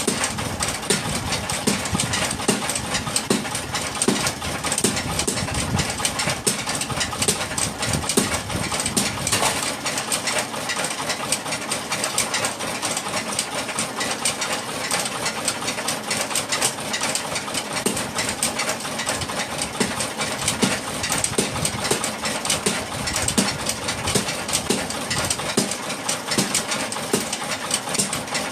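Workshop machinery running steadily with a rapid, continuous clatter of small knocks.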